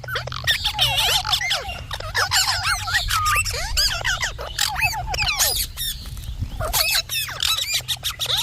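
Indian ringneck parakeet chattering with a rapid stream of squeaky chirps and short whistled glides, including quick runs of repeated notes, over a steady low hum.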